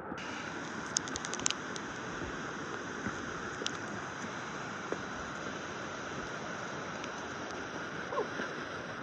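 Steady rush of water from a creek waterfall, with a quick run of small clicks about a second in.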